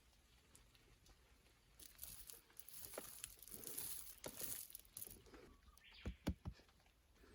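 Faint rustling and scraping for a few seconds, then a few sharp knocks close together near the end.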